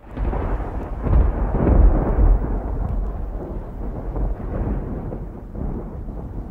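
Thunder sound effect: a crack that breaks into a deep rumble, loudest about two seconds in, then slowly fading.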